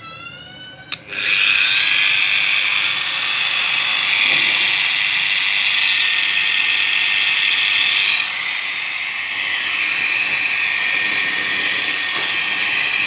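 Makita GA4040C 1400 W angle grinder switched on about a second in, spinning up and then running steadily at full speed with a high whine.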